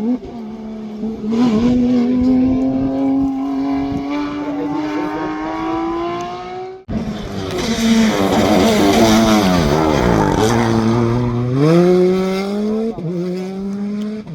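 Rally car engine accelerating hard, its pitch climbing steadily until it cuts off suddenly about seven seconds in. Then another rally car's engine falls in pitch as it slows, picks up again and accelerates, with a gear change near the end.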